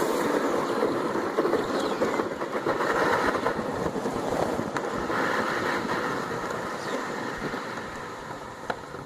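Hot aluminum slag quenched in a bucket of water, sizzling and crackling as the water boils against it, slowly dying down as it cools.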